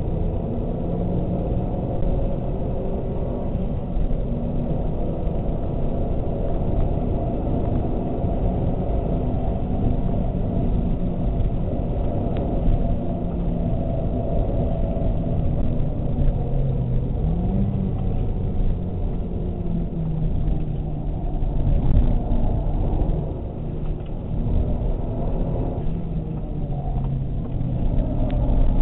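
Mazda 3 MPS's turbocharged 2.3-litre four-cylinder engine running hard at speed, heard from inside the cabin over a low rumble of tyres and wind. Its note rises and falls with the changes of speed.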